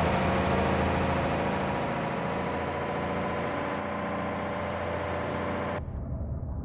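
A vehicle engine running steadily at idle; about six seconds in it turns dull and muffled.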